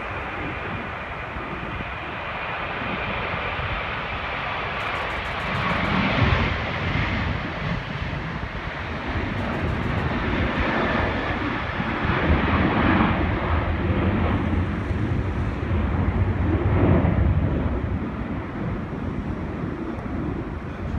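Boeing 737 jet engines at takeoff thrust: a loud, steady rushing noise that gradually grows louder, peaks late on, then eases slightly as the airliner goes by.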